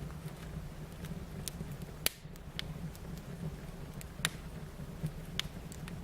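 Fire crackling: scattered sharp pops over a steady low rush, the loudest pop about two seconds in.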